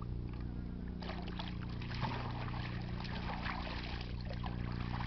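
Irregular splashing and gritty scraping of wet sand and water, starting about a second in, as a beach detectorist digs down to a deep metal-detector signal. A steady low hum runs underneath.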